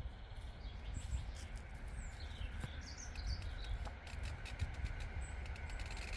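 Countryside ambience: a few short bird chirps about halfway through, over a steady low rumble of breeze and many small scattered clicks.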